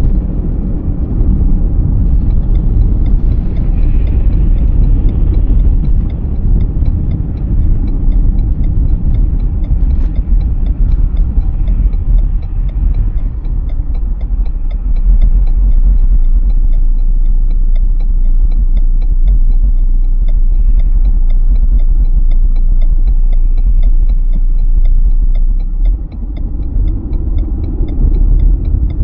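Car driving along: a steady low rumble of road and engine noise, with a brief drop in level about 26 seconds in.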